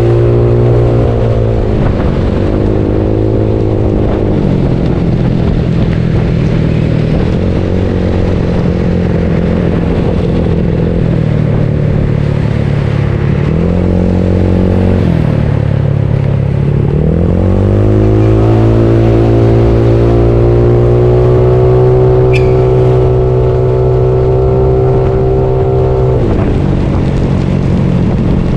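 Bored-up Yamaha Mio scooter's single-cylinder four-stroke engine running under way, its pitch rising and falling with the throttle several times and held high for a long stretch in the second half before dropping back.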